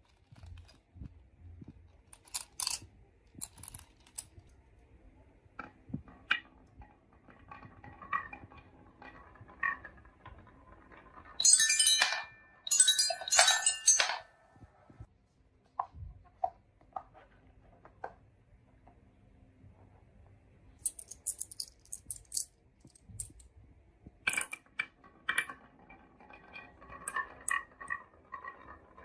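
Marbles rolling and clicking along a HABA wooden marble run, with scattered small knocks and rattles. A loud burst of clinking clatter comes about twelve to fourteen seconds in, and another shorter one near twenty-four seconds.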